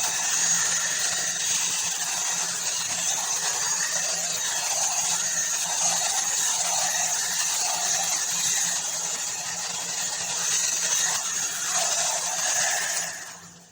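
Ubeator hot air brush (hair dryer brush) running: the fan blowing with a steady hiss and a low motor hum, then switched off about a second before the end.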